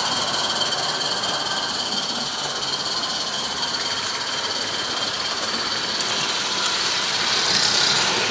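A 16mm-scale Roundhouse live steam locomotive running, a steady hissing steam sound that grows louder near the end.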